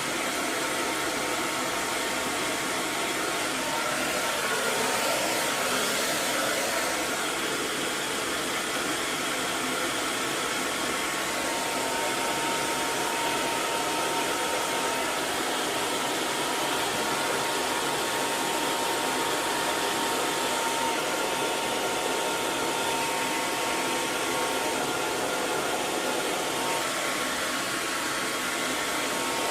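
Hair dryer running continuously: a steady rush of blowing air with a faint motor whine.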